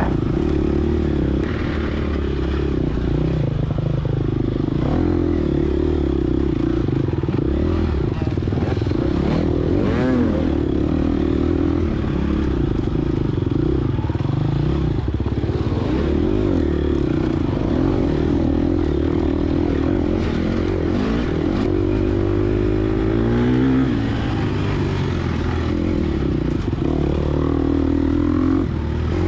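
Gas Gas EX250F dirt bike's four-stroke engine running hard under the rider, its revs rising and falling as he rides.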